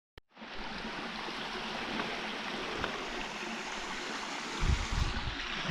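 Stream rushing steadily, running high after recent rain. A short click sounds at the very start, and low thumps hit the microphone from about four and a half seconds in.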